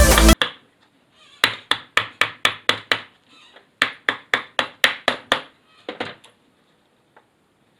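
Background music cuts off, then two quick runs of sharp taps, like light hammer blows, about four a second and about seven in each run, with a short pause between. Two fainter taps follow near the end.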